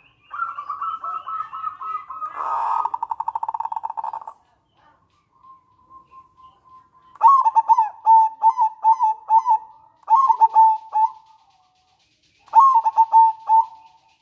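Zebra dove (local perkutut) calling. It opens with a run of slightly falling notes that breaks into a fast rattling trill (nretek) about 2.5 s in. After a short pause come repeated bursts of quick staccato coos (the manggung song).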